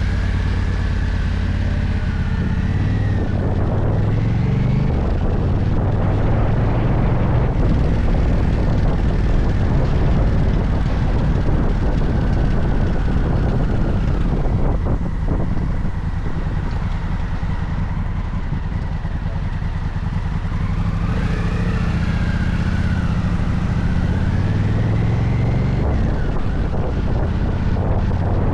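Motorcycle engine running on the move, the revs climbing and dropping twice as it accelerates, with rumbling wind noise underneath.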